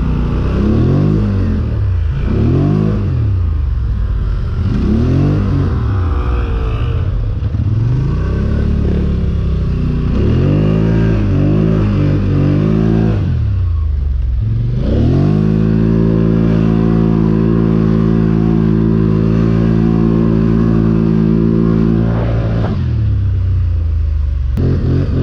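ATV engine revving up and down over and over as it pushes through deep snow, then climbing to a steady high-rev run for several seconds before easing off and picking up again near the end.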